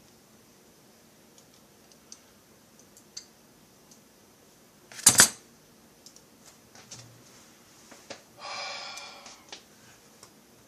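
Small clicks and taps of tools and metal parts being handled on a workbench, with one loud sharp crack about five seconds in and a short scraping noise lasting about a second a few seconds later.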